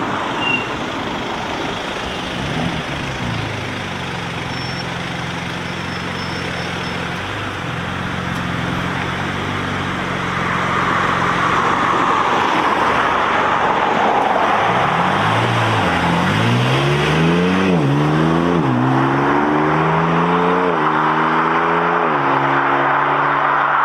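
BMW M car's engine idling steadily, then accelerating hard from about two-thirds of the way in, the revs climbing and dropping back at several quick upshifts, over a steady wash of street noise.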